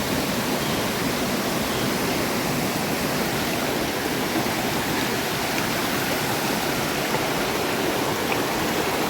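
River water rushing steadily, a continuous even rush with no breaks.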